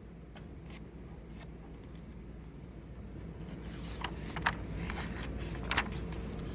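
Paper rustling and a few crisp clicks as picture-book pages are handled and turned, louder in the second half, over a faint steady hum.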